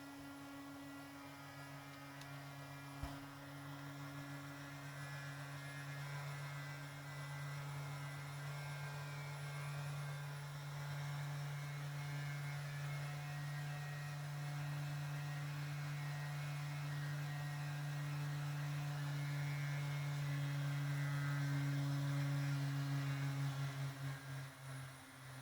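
Airliner engines droning steadily during the approach to landing, a low hum with a steady higher tone and thin whining tones above it. The drone slowly grows louder, then wavers and falls away near the end. A single brief click about 3 seconds in.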